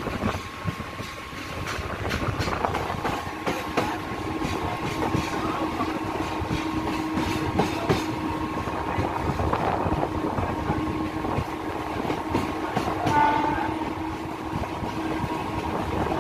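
Mumbai suburban EMU local train running at speed, heard from an open coach doorway: wheels clattering and knocking over rail joints and points, with a steady whine underneath. A short pitched tone sounds briefly late on.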